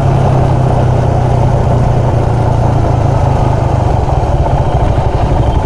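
Motorcycle engine running under way, a steady hum that about four seconds in turns into a slower, even putter as the bike slows down.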